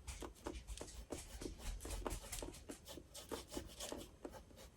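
Faint, quick strokes of a paintbrush working acrylic paint, about four strokes a second.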